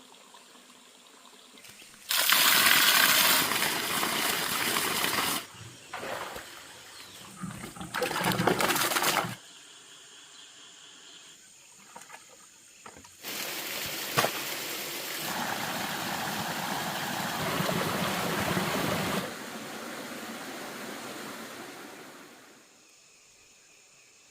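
Water pouring and splashing in several separate stretches that start and stop abruptly, the longest in the second half, fading out near the end.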